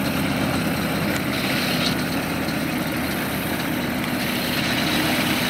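1944 Volkswagen Schwimmwagen's air-cooled flat-four engine running steadily as the amphibious car moves through the water.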